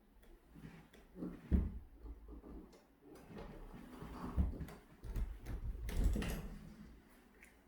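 A cat and a small dog playing on a bare floor: dull thumps of paws and bodies landing, with light clicks and scuffling between them, the loudest thumps about a second and a half, four and a half, and six seconds in.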